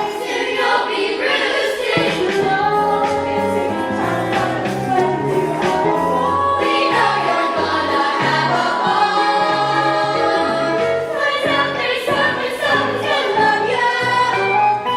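A stage musical cast singing together in chorus over an instrumental accompaniment with a moving bass line.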